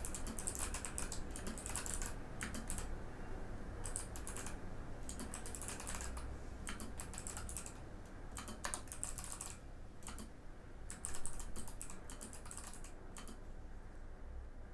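Typing on a Mikit M65 mechanical keyboard with Box White switches: rapid clicking keystrokes in bursts with short pauses. The keystrokes thin out and stop near the end.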